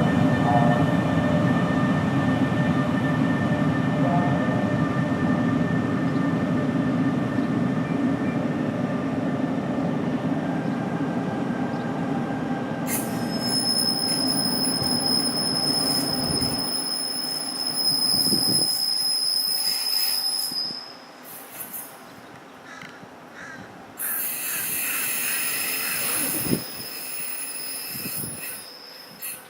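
Electric passenger train running past, a steady low rumble that fades away about two-thirds of the way through. About halfway in, a high-pitched steady squeal of steel wheels on rail comes in and holds for several seconds. A second high squeal starts near the end.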